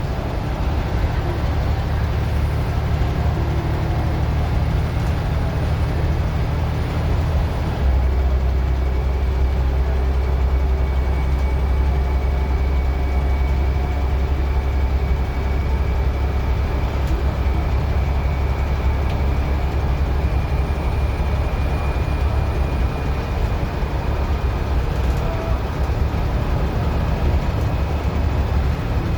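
Scania N94UD OmniDecka double-decker bus engine working hard as the bus drives, a steady deep drone that drops lower and grows louder about eight seconds in, with a faint high whine over it.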